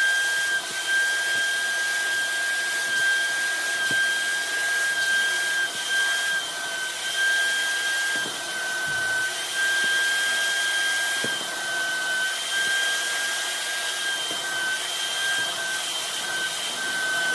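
Suction motor of a small portable carpet cleaner running steadily, a high whine over a rushing hiss that wavers slightly in pitch.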